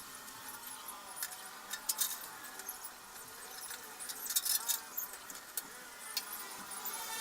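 Light metallic clinks and clicks, scattered and irregular, of tools and small metal parts being handled, with a denser run of clinks about four to five seconds in.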